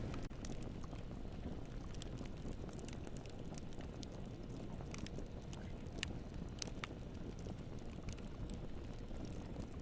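Wood fire burning in a fireplace: a steady low rumble of flames with scattered sharp crackles and pops, a few sharper pops in the second half.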